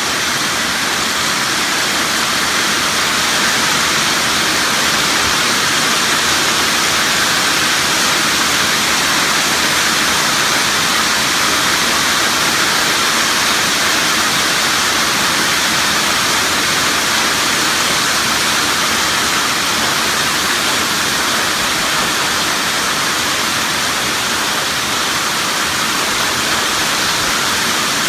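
Hailstorm: hail and heavy rain pelting down in a dense, steady wash of noise that starts suddenly and never lets up.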